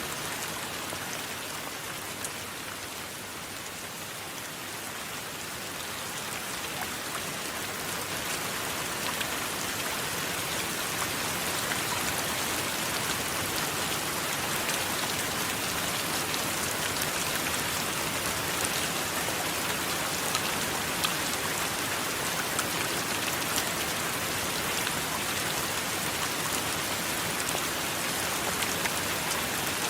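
Steady heavy rain falling, with the patter of individual drops striking a surface; it eases slightly a few seconds in, then builds back up and stays steady.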